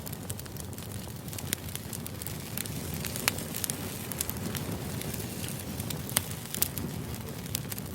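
White-noise background track: a steady low rumble with frequent irregular sharp crackles and pops.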